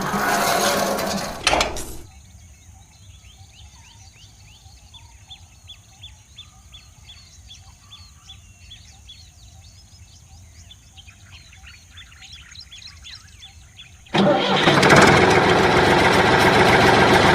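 A small engine or motor running loudly for about two seconds at the start, cutting out, then running again from about three seconds before the end; in the quiet stretch between, birds chirp repeatedly.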